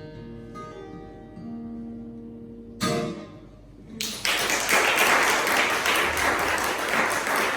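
Acoustic guitar's last notes ringing out, with one final strummed chord about three seconds in. About a second later an audience breaks into applause, louder than the guitar.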